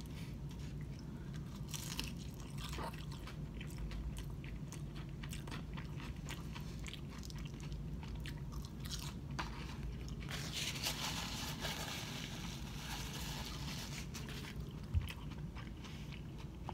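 Chewing and crunching of battered fried fish, with many small mouth clicks and a denser stretch of crunching around the middle, over a steady low hum. A single soft knock about fifteen seconds in.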